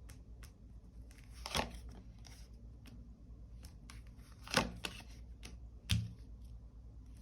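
Tarot cards being drawn and laid out on a table: soft papery swishes and small ticks, with three louder card slaps spread through, the last landing with a light thump.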